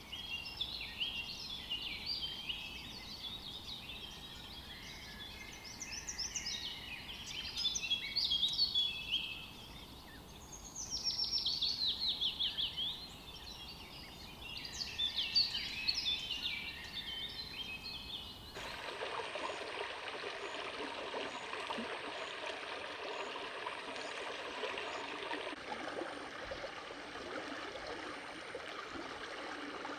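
Birds singing outdoors, a mix of chirps and quick descending trills. About two-thirds of the way through, the sound cuts suddenly to the steady rush of running stream water.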